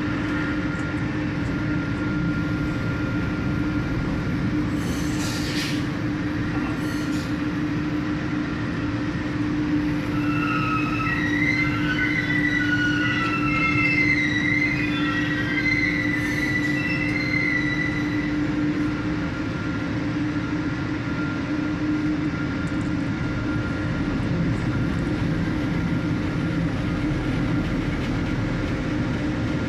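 Dredger's heavy machinery running steadily with a constant low hum, with a spell of high metallic squealing in the middle.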